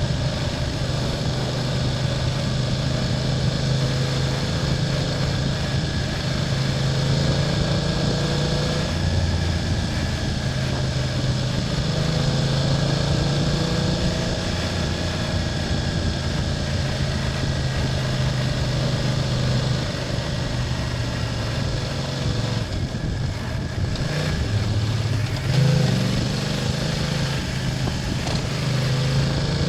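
BMW F800GS's parallel-twin engine running on the move, its pitch rising and falling with the throttle. A few changes in pitch and one short rev come about three-quarters of the way through.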